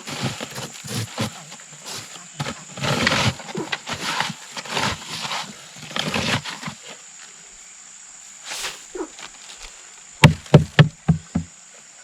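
Scattered short rustling and handling noises, then a quick run of about six sharp knocks, a few per second, near the end.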